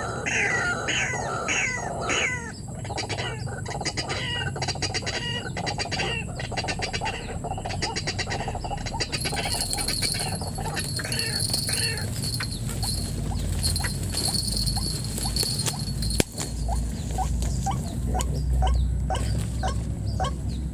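White-breasted waterhen calls repeated over and over, about two a second at first and in quick short rising notes near the end. Rustling and rumbling handling noise runs underneath, with one sharp knock about two-thirds of the way in.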